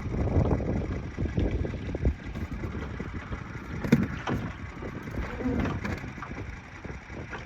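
Wind buffeting the microphone, an uneven low rumble that surges and fades, with a few short knocks a little over halfway through.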